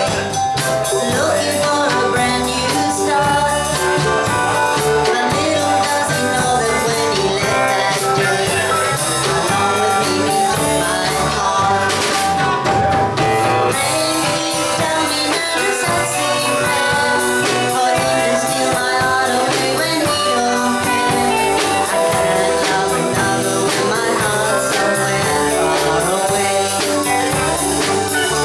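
Live band playing a song with a steady beat: a singer's voice over guitar and drum kit.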